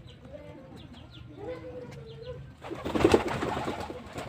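Domestic pigeons cooing, followed about three seconds in by a loud rustling clatter lasting over a second.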